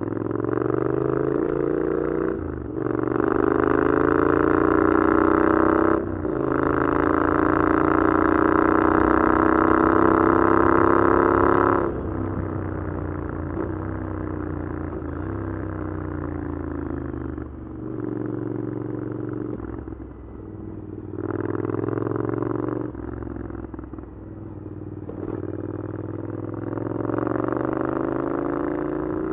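Triumph Scrambler 900's parallel-twin engine with an Arrow exhaust, accelerating hard through the gears. The note climbs with two quick upshifts, about 2.5 and 6 seconds in, then pulls high until the throttle closes and it drops to a lower off-throttle running. After that come a couple of short throttle openings, and the note rises again near the end.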